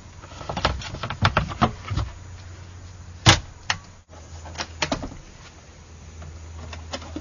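Plastic lids and latches of a minivan's interior storage compartments clicking and knocking as they are opened and shut, a quick series of clicks with the sharpest one about three seconds in, over a low steady hum.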